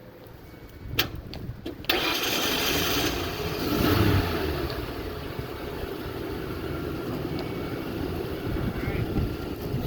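A 1994 Ford F-150 pickup's engine starting about two seconds in, after a couple of clicks. It revs up briefly around four seconds in, then runs steadily.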